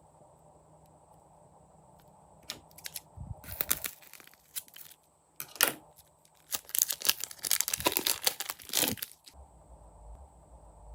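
Slime being squeezed and stretched by hand, giving dense crackling, popping clicks in several bursts after a quiet start, the busiest stretch near the end.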